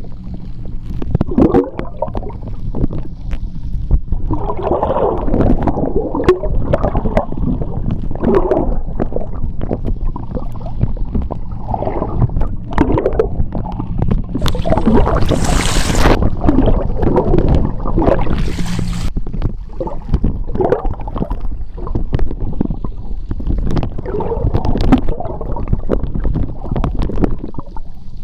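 Seawater moving past an underwater microphone: a deep churning rumble with irregular gurgling and bubbling. A faint steady low hum sits underneath. Two loud hissing bursts of bubbles come about halfway through and again a few seconds later.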